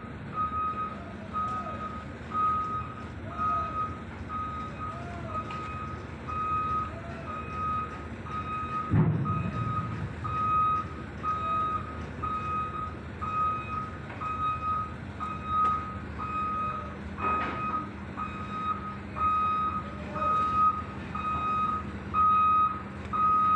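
Heavy machine's travel alarm beeping about once a second over a steady diesel engine, as the excavator tracks onto the vessel. A low thud comes about nine seconds in and a sharp knock near 17 seconds.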